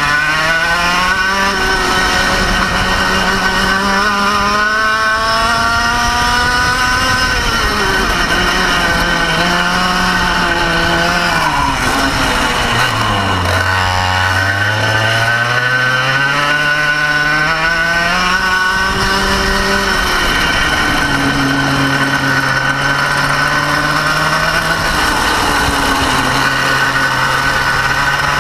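Kart engine heard onboard, revving up and down with the throttle as the kart accelerates and slows. The pitch climbs for several seconds and then falls quickly about three times, then holds steadier and lower near the end. A steady high whine runs on top.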